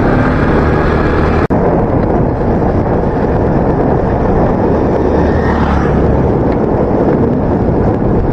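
Wind noise on the microphone and tyre noise from a motorcycle rolling at about 30 km/h with its engine switched off, with a brief dropout about a second and a half in.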